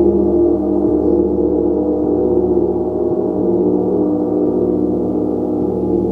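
Gong played continuously: a dense, sustained wash of overlapping ringing tones, renewed by soft strokes every second or two.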